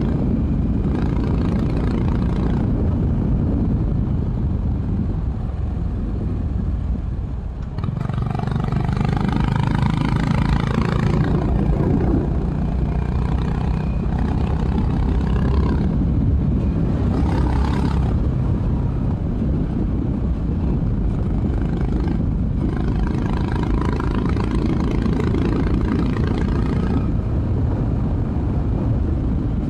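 Honda H'ness CB350's single-cylinder engine running through its stock exhaust while riding, with wind rush. The throttle eases off briefly about seven seconds in, then the engine pulls harder, its pitch rising.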